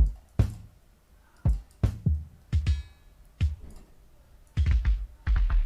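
Sampled drum kit from the Heatup 2 plugin playing a sparse beat of kick and snare hits with reverb tails, quickening into a fast run of hits near the end.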